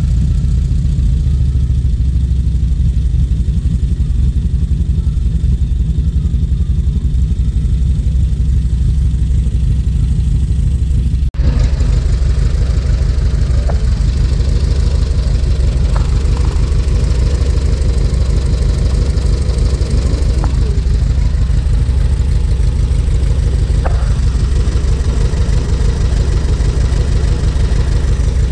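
Air-cooled VW Beetle flat-four engine with twin carburettors, running on ethanol, running steadily at idle while its carburetion is being adjusted. There is a brief drop-out about eleven seconds in.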